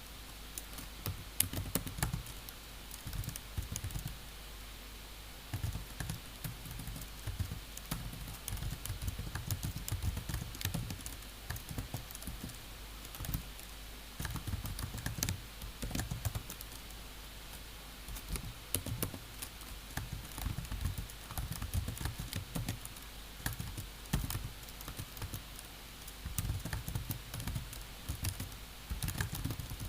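Computer keyboard being typed on in bursts of quick key clicks with short pauses between them, over a faint steady low hum.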